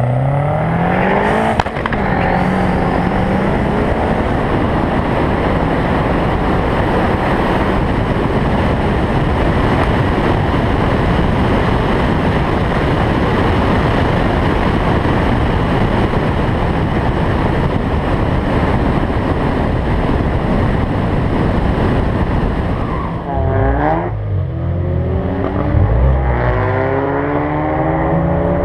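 Turbocharged Audi A4 1.8T four-cylinder engine revving up, followed by a long stretch of loud, dense engine and rushing noise at full throttle. Near the end the revs climb again.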